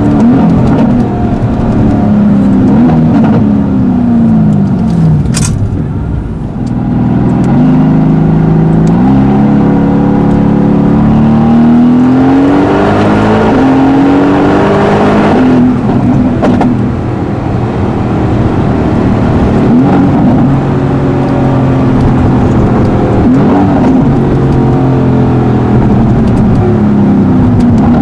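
Twin-turbo V8 of a 760 hp PP-Performance-tuned Mercedes-AMG GT S running hard, its pitch climbing and dropping several times as it accelerates and shifts. A single sharp crack comes about five seconds in, and a louder rush of noise builds just before halfway and cuts off suddenly.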